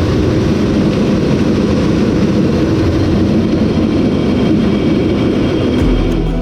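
Case IH 5088 combine running steadily while harvesting corn, a continuous machine drone.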